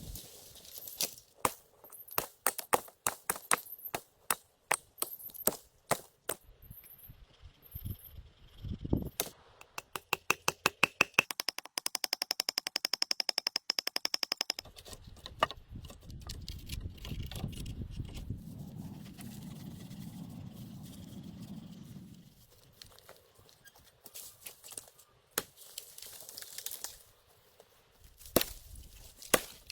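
Wood being worked and handled for a shelter: irregular sharp knocks and cracks of sticks and branches. About a third of the way in comes a fast, even run of clicks lasting several seconds, then a low, noisy rustling stretch.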